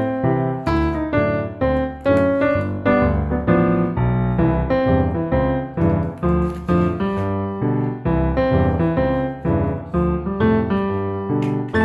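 Background piano music: a light tune of quick, evenly paced notes.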